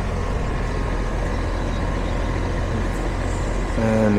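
Outdoor air-conditioning condenser unit running, its compressor and condenser fan motor giving a steady hum.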